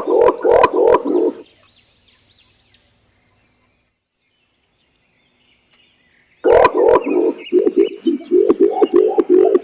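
Green imperial pigeons giving loud, deep, rapidly repeated hooting calls. The calls break off about a second in, leaving a few faint high chirps and then quiet, and start again after about six and a half seconds.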